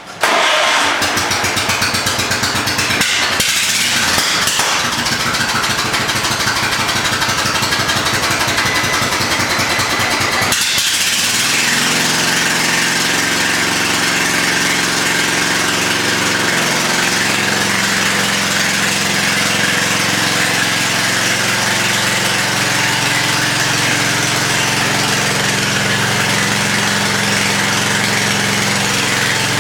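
WheelHorse 414-8 lawn tractor engine starting up at the very beginning and running steadily. About ten seconds in, its note changes to a steadier, more pitched running sound that holds for the rest of the clip.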